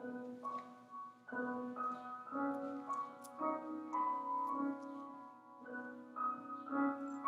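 Piano playing a slow passage of chords and melody notes, starting abruptly, with a new note or chord about every half second to a second.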